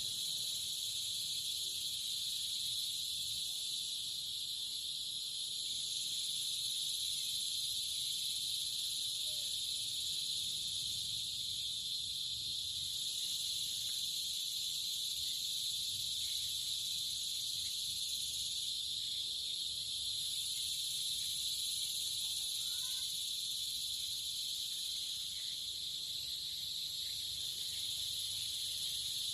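Steady insect chorus, a continuous high-pitched trill that holds at the same level with no pauses.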